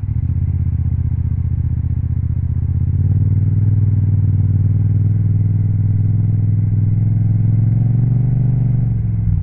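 Yamaha MT-07's 689 cc parallel-twin engine, breathing through an Akrapovic titanium exhaust, running steadily under way. It gets louder about three seconds in, rises slightly in pitch near the end, then eases off.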